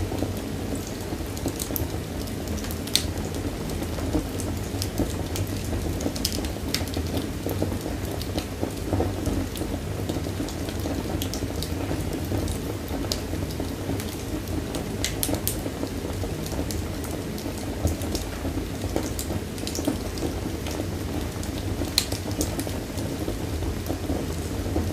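Wood fire in a fireplace crackling, with scattered sharp pops at irregular intervals over a steady low rumble of flame.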